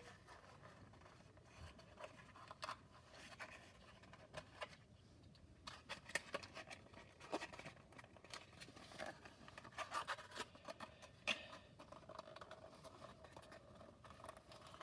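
Faint clicks, scratches and scrapes of hands working small cardboard and plastic playset parts with a screw and washer, growing busier about halfway through.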